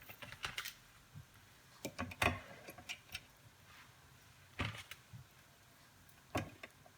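Scattered light clicks and knocks of large prawns being set out one by one on a serving platter, the loudest about two seconds in.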